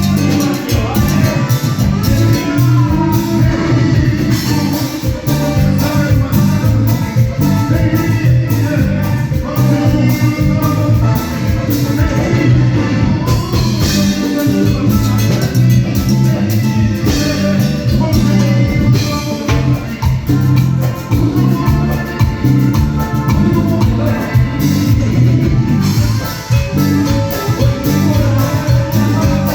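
Live band playing Latin dance music with a steady beat, heavy bass and percussion, with some singing, picked up as room sound in a hall.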